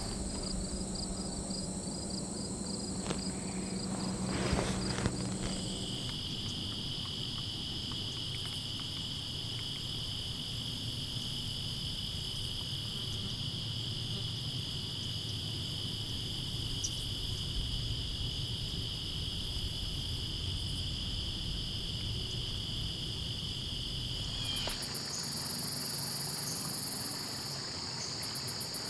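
Crickets and other insects trilling steadily at evening, several high-pitched trills layered together over a faint low rumble. The blend of trills changes abruptly about five seconds in and again near the end.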